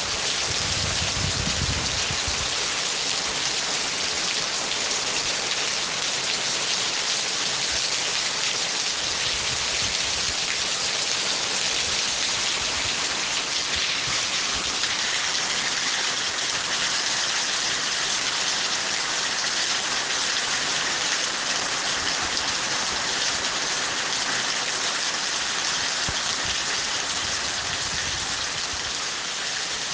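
Steady heavy rain falling, a dense even hiss of drops, with faint low rumbles now and then.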